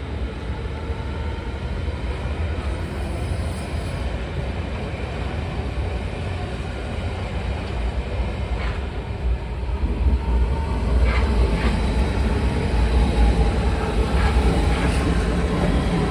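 Train running on the rails: a steady low rumble with a few wheel clicks, growing louder over the second half as it comes closer.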